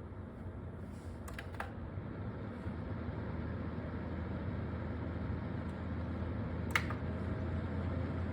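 Steady hum of a running fan, with a few short sharp clicks: two about a second and a half in and one near seven seconds.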